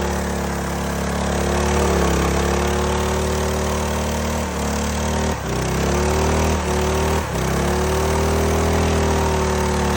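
Minibike's small engine running steadily at high speed, with a few brief dips in speed around the middle.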